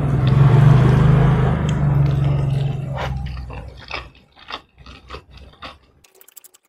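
Close-miked chewing of a mouthful of food: a loud low rumble for about three seconds, then a run of sharp wet mouth clicks that fade away.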